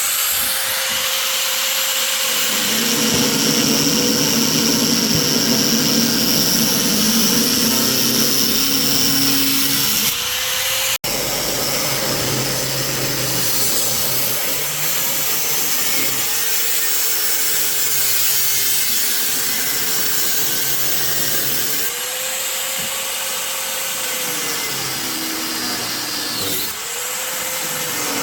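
A handheld power tool running loudly and continuously, its motor pitch dipping and recovering several times as it is pressed against the work. The sound breaks off abruptly about eleven seconds in and then carries on.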